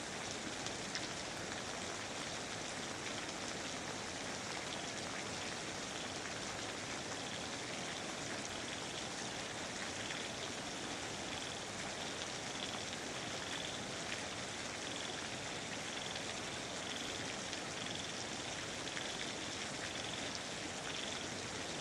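Steady rainfall, a dense even hiss of drops. From about a quarter of the way in, a faint high-pitched animal call pulses over it about once or twice a second.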